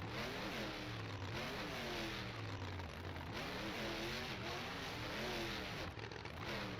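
Monster truck engine revving up and down over and over, its pitch rising and falling about once a second over a steady low rumble.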